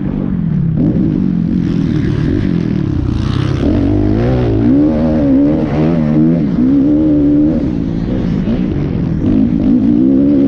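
Motocross bike engines revving, the pitch rising and falling over and over as the throttle opens and closes.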